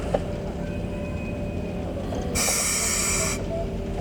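A locomotive venting a sharp burst of hiss for about a second, some two seconds in, over a steady low rumble.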